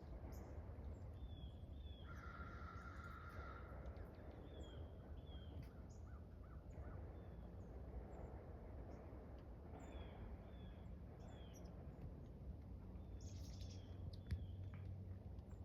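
Birds calling: short high notes in twos and threes every few seconds, over a faint, steady low rumble. A longer steady tone sounds about two seconds in.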